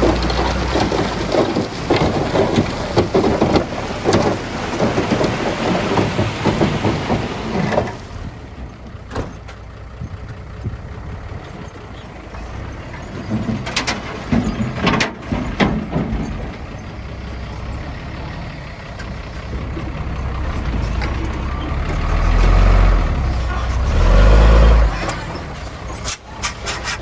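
Diesel earthmoving machinery at work on a rock-and-soil fill. A loud rattling, grinding noise lasts about eight seconds, then it goes quieter with a few sharp clanks, and a deep engine rumble swells near the end.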